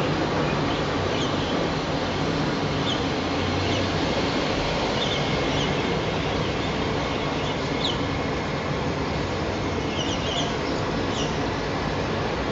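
Kawasaki-built MRT train running along the track, a steady loud running noise with short high chirps here and there.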